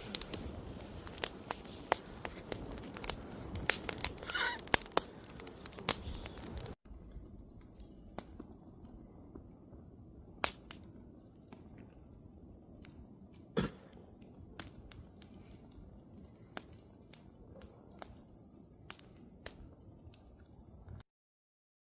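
Wood campfire crackling, with frequent sharp pops and snaps over a low steady hiss. After a sudden drop about seven seconds in, the pops come quieter and sparser, and the sound cuts off just before the end.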